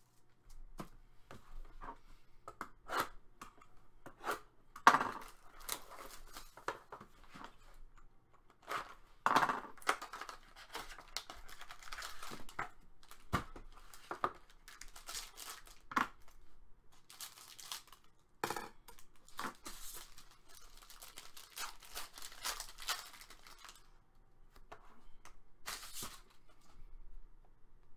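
Paper or foil trading-card pack wrappers being torn open and crinkled, with many short sharp clicks and crackles as cards are handled.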